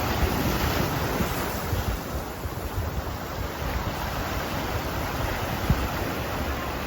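Sea waves washing, with wind gusting on the microphone.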